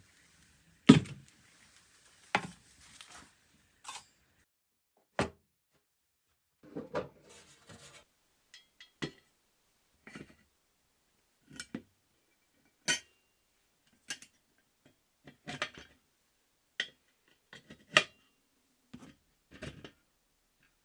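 Metal parts of a vintage paraffin camping stove being handled and set down: a series of separate clinks and knocks with pauses between them, the loudest about a second in.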